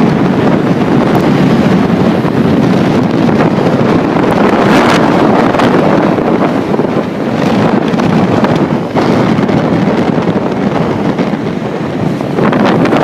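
Loud blizzard wind gusting across the microphone.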